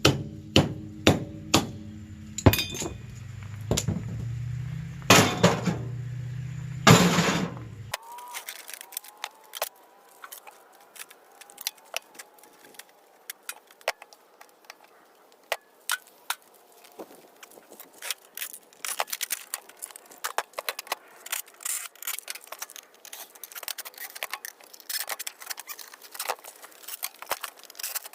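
Scrap air-conditioner parts being struck and handled: hard metal blows about once a second over a low steady hum, then an abrupt change about eight seconds in to many light metallic clicks and clinks.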